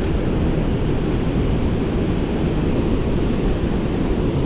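Flood-swollen creek pouring over a waterfall: a steady, low rushing of heavy water with no breaks.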